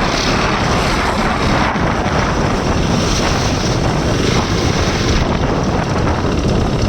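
Steady, loud wind rush buffeting the microphone of a motorcycle being ridden, with road noise underneath.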